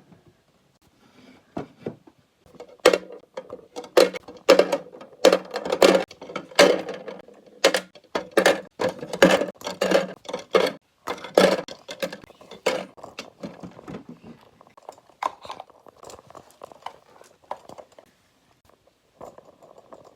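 Food containers being set down and knocking together on refrigerator shelves: a quick run of sharp knocks and clinks, busiest in the first half, thinning to lighter taps after about fourteen seconds.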